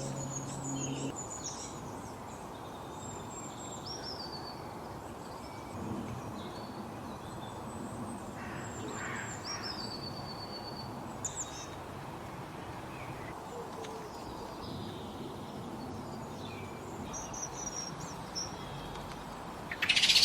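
Several small birds chirping and whistling in short, scattered calls over a steady background hiss, with a loud harsh burst of sound starting at the very end.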